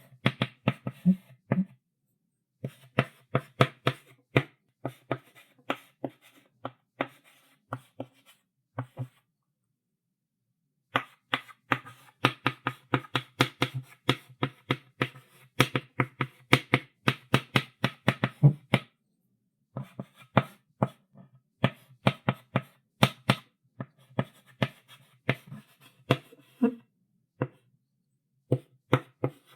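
Chalk writing on a blackboard: quick runs of taps and short strokes, stopping briefly a few times between words.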